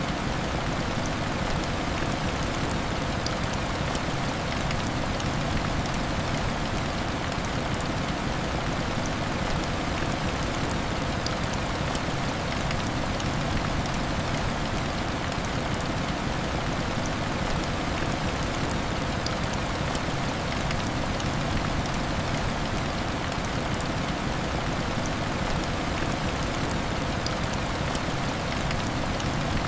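Heavy rain hitting window glass: a steady, even rush with faint scattered ticks of drops.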